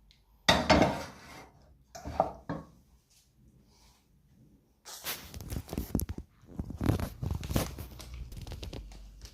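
Kitchenware being handled: a few sharp knocks, then several seconds of scraping and rustling.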